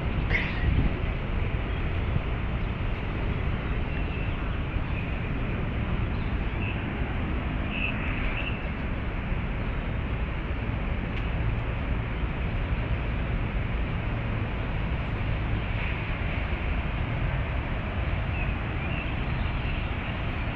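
Steady low rumble of distant city traffic, with a few short, faint bird calls over it.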